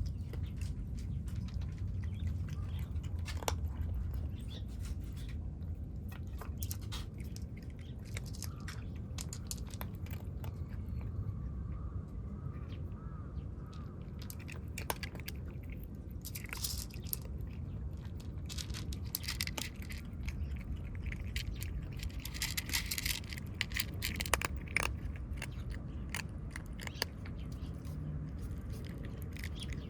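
Kittens chewing and crunching food, with many short crisp clicks over a steady low rumble.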